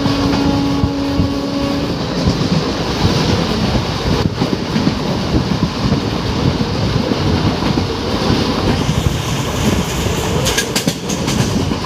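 Matsyagandha Express passenger train running along the track: a steady loud rumble with wheels clattering over the rails. A brief held tone sounds in the first two seconds, and a quick run of sharp clicks comes near the end.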